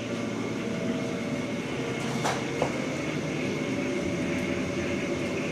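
Steady hum and rush of kitchen machinery running, with two light knocks about two and a half seconds in.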